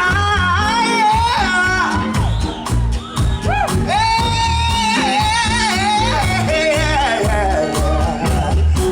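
Live blues-rock band playing, with a steady bass-and-drum groove under a lead line that slides and bends in pitch.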